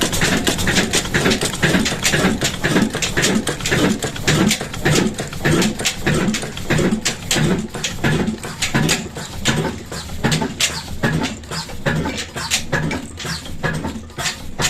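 Old stationary diesel engine running a well pump, its exhaust beating steadily at about three beats a second.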